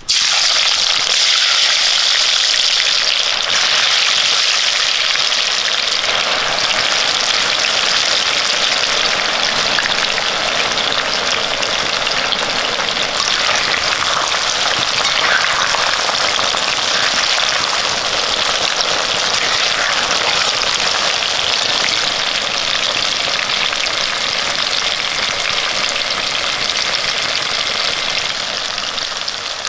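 Sliced raw green mango shallow-frying in hot sesame oil: a loud, steady sizzle that starts abruptly as the slices go into the oil and eases slightly near the end.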